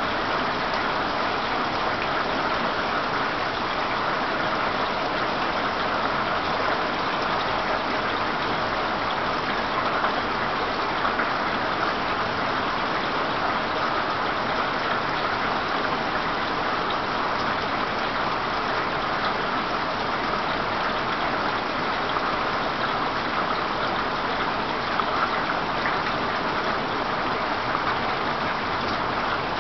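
Heavy rain falling together with rushing floodwater, a steady, even hiss that does not let up.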